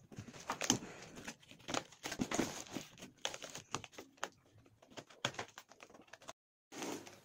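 Parcel packaging being handled and opened: irregular crinkling and rustling of the wrapping with scattered sharp clicks and taps, broken by a brief dead gap near the end.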